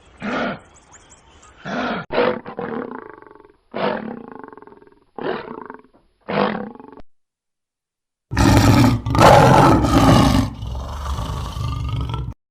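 Animal calls: six short calls, each about half a second, then after a short pause a long, loud, rough roar lasting about four seconds.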